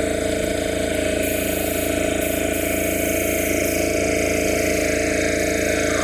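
Honda CT125 Hunter Cub's single-cylinder engine running at a steady speed.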